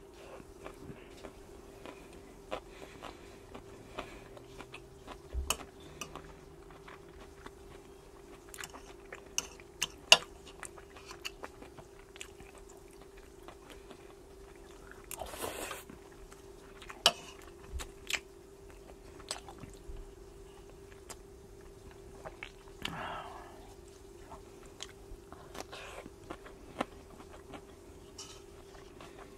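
A person chewing and smacking while eating salmon larb with rice, with sharp clicks of a fork against a ceramic plate scattered throughout. A longer noisy mouth sound comes about halfway in, and a faint steady hum runs underneath.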